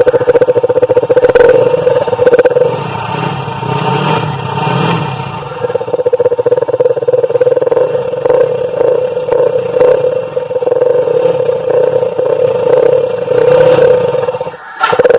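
Motorcycle engine running through an exhaust silencer modified to sound like a KTM Duke's, with a rapid, even pulsing note. It eases off a few seconds in, picks back up, and dips sharply for a moment near the end before coming back.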